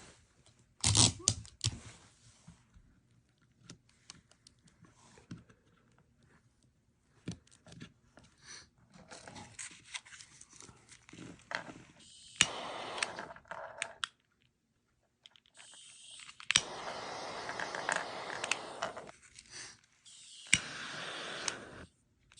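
Sharp clicks and scraping of the small parts of a disassembled refillable gas lighter being handled, followed by three stretches of steady hiss, each a few seconds long, in the second half.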